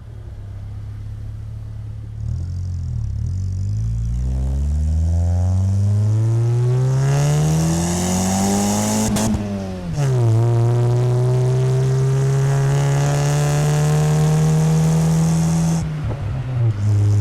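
Exhaust note of a 1997 Chevrolet Corsa Wind 1.0 MPFI four-cylinder with a JK muffler, heard right at the tailpipe as the car accelerates. The revs climb through one gear, drop at a gear change about ten seconds in, climb more slowly in the next gear, and fall off near the end.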